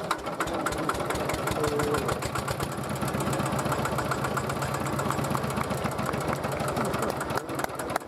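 Kubota tractor's 14 hp single-cylinder diesel engine running at a steady idle, with a fast, even knock from each firing stroke.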